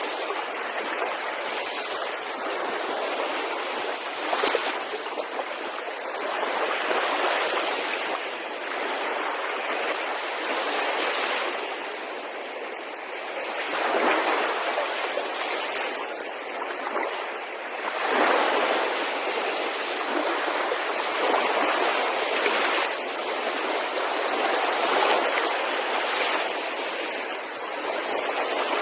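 Sea waves breaking and washing in, the rush of water swelling and easing every few seconds.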